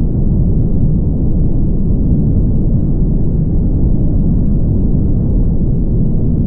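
Steady low rumble of a car driving, tyre and road noise with engine hum, even and unchanging.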